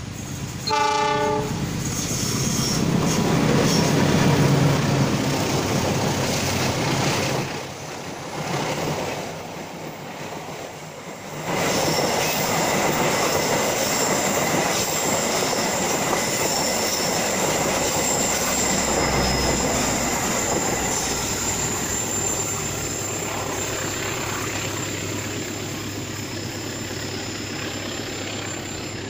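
A CC206 diesel-electric locomotive hauling a passenger train gives a short horn blast about a second in, then its engine passes close by. Its coaches follow, rolling past with wheel and rail noise and a high, steady wheel squeal that slowly fades near the end.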